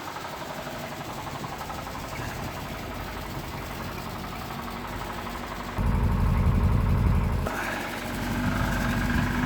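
Riley 1.5-litre four-cylinder engine idling lumpily, the uploader suspecting dirt in the carburettor or an ignition fault. About six seconds in, a louder low rumble comes in suddenly for about a second and a half.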